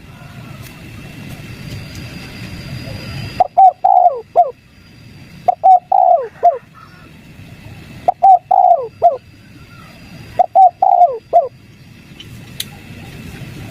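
Spotted dove cooing: four phrases a couple of seconds apart, each a quick run of short coos that fall in pitch at the end.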